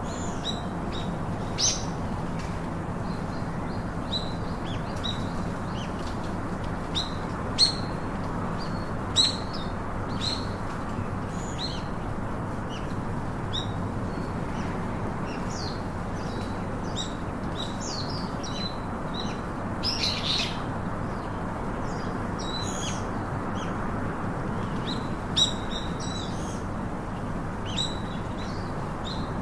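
Small birds chirping and tweeting, many short high chirps overlapping at irregular intervals, over a steady background hiss.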